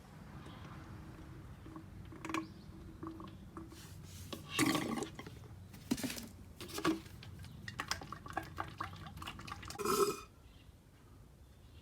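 Clinks and knocks of tools and parts being handled during a motorcycle oil change: a handful of separate knocks, then a quick run of light ticks before a last louder knock, over a low steady hum.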